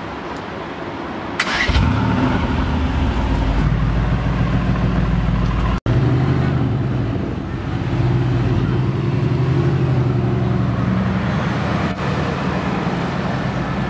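Mercedes-AMG GT R's twin-turbo V8 starting up about a second and a half in: a short high-pitched whirr, then the engine catches with a loud flare and settles into a deep idle. After an abrupt cut near the middle, the car pulls away at low speed, the V8 running with a few small rises and falls in pitch.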